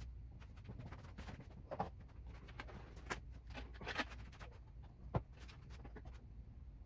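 Scattered light taps and clicks of hand work, the sharpest knock a little after five seconds in, over a faint low hum.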